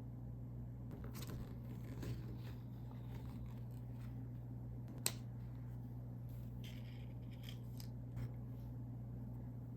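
Plastic snack packaging being handled and opened: scattered crinkling, scraping and small clicks, with one sharp click about five seconds in, over a steady low hum.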